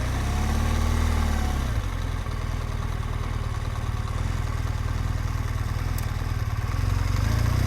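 BMW R1200GS Adventure's boxer-twin engine running at low revs during a slow U-turn. The revs rise and fall once in the first couple of seconds, hold steady, then pick up again near the end.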